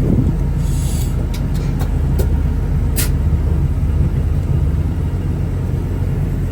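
Steady low rumble of a heavy diesel truck engine, with a few sharp clicks about one and three seconds in.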